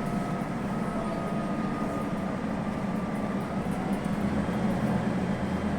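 Scania N280UB city bus's compressed-natural-gas engine running as the bus drives between stops, heard from inside the passenger cabin: a steady low drone with a faint whine that sinks slightly in pitch over the first few seconds.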